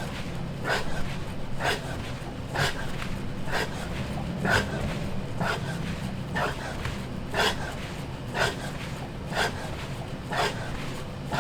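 A man breathing out hard in short, forceful puffs, about one per second, in time with each repetition of a set of sit-ups. A steady low hum runs underneath.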